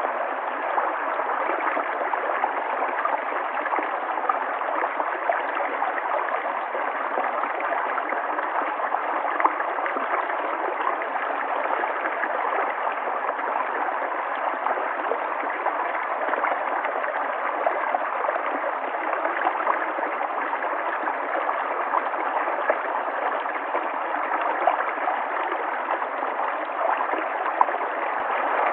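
River water flowing in a steady, continuous rush, with small brief flickers in level and no change throughout.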